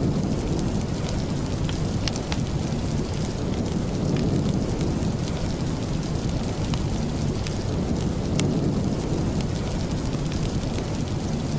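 Steady, heavy rain with a low rumble underneath and scattered sharp ticks of drops throughout.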